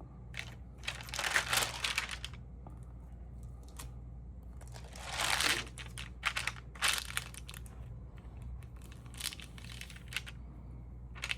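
Stamp album pages being handled and turned, rustling and crinkling in several short bursts over a steady low hum.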